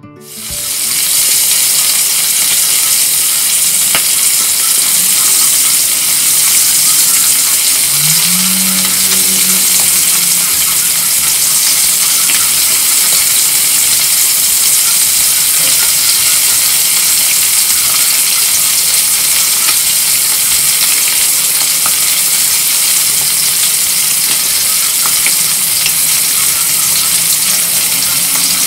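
Whole fish frying in hot oil in a steel wok: a loud, steady sizzle with occasional small pops.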